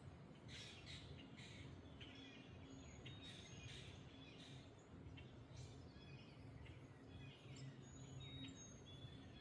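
Faint birds chirping and whistling in short, repeated calls over a low, steady wind rumble.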